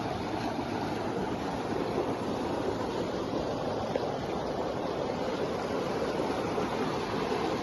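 Heavy storm rain pouring down as a steady, even rush of water noise.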